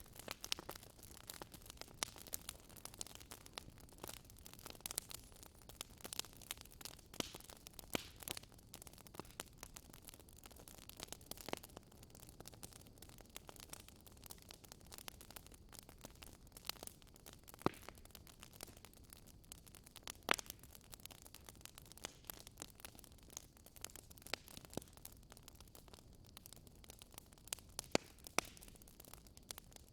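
Wood fire crackling in a fireplace: irregular sharp snaps and pops, several a second, over a faint steady hiss, with a few louder pops scattered through.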